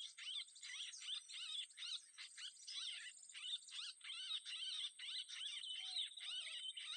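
Small birds chirping and twittering in a fast, unbroken stream of short notes, with a steady high-pitched whine running underneath.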